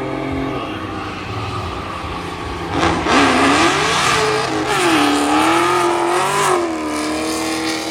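Car engine revving hard, its pitch climbing and dropping again and again, getting louder and rougher from about three seconds in.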